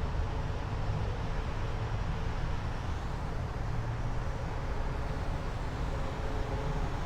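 Steady low rumble of jet aircraft engines, with a spread of roar above it and no distinct events.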